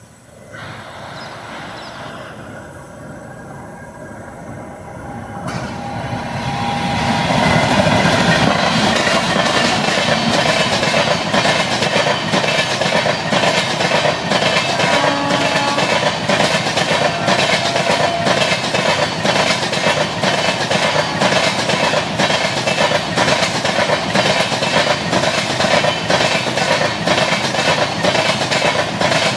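Parcel express train of LHB vans hauled by a WAG-9HC electric locomotive running past at speed: wheels on the rails, growing louder over the first several seconds and then holding steady as a rhythmic clatter over the rail joints.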